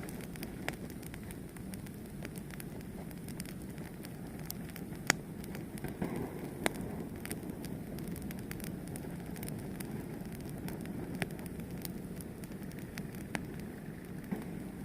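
Fire burning with a steady low rush and irregular crackles and pops, one sharper pop about five seconds in.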